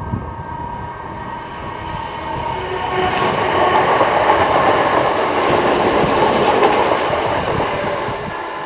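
Class 317 electric multiple unit passing close by on the rails: the noise of its wheels and running gear swells over about three seconds, is loudest for several seconds as the carriages go by, then fades as it draws away.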